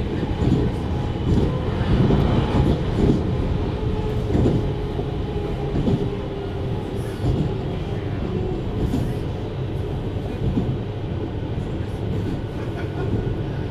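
JR 733 series electric multiple unit running, heard from inside the car: a steady low rumble of wheels on rail, with a thin steady hum from about four to eight seconds in.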